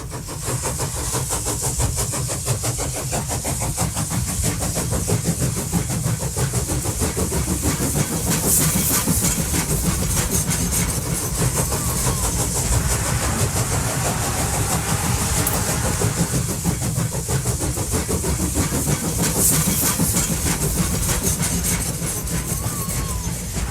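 Model train running on the layout's track: a steady motor and wheel noise with fast, continuous clicking.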